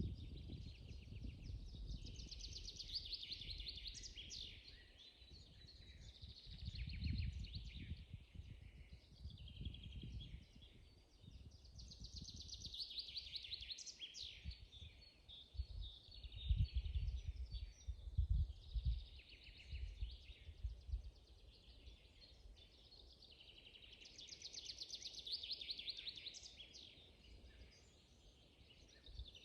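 Songbirds singing in woodland, with a song of rapid repeated notes, each phrase a few seconds long, coming back about every ten seconds, and other birds calling between. Irregular low rumbles run underneath, loudest about two-thirds of the way through.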